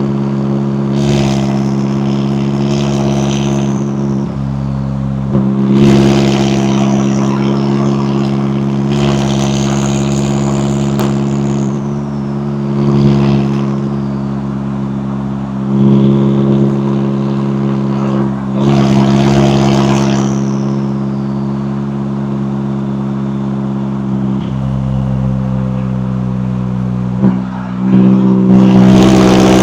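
McLaren 570S twin-turbo V8 running at a fairly steady engine speed while driving, with several brief louder surges of throttle.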